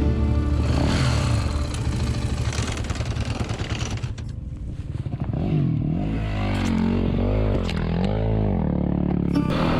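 Dirt bike engine running while being ridden. Its pitch rises and falls several times in the second half as the throttle is worked.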